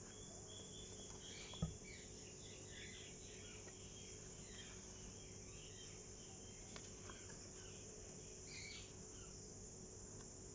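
Faint, high-pitched chirping of small animals, many short chirps in quick runs, over a steady hiss, with one soft thump about one and a half seconds in.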